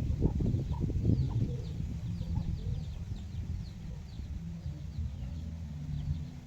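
Free-range chickens clucking, busiest in the first second and a half, with quick high peeps through the middle and a steady low hum underneath.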